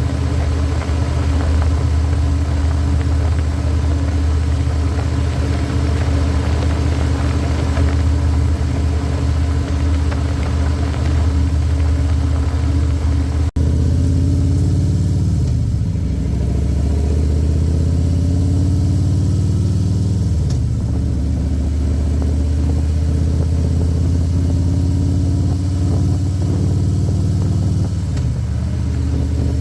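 Harley-Davidson Milwaukee-Eight V-twin running under way, a steady deep engine note. The sound breaks off for an instant about halfway, and afterwards the engine pitch rises and falls several times as the bike slows and speeds up.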